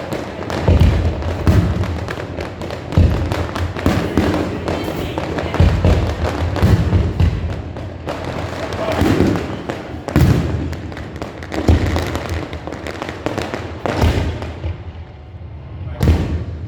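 Fireworks display with rapid, repeated booms and crackling bursts, and music playing alongside.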